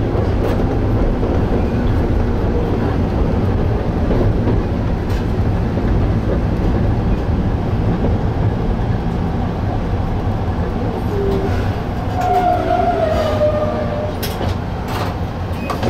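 Electric train running along the Tateyama Line, heard from on board: a steady rumble of wheels on rail and the running gear. A brief wavering squeal rises over it about twelve seconds in.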